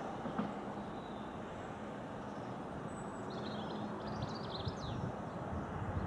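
Low, steady rumble of a departing Southeastern Class 465 electric multiple unit pulling away out of the station. A bird twitters briefly, about three to five seconds in.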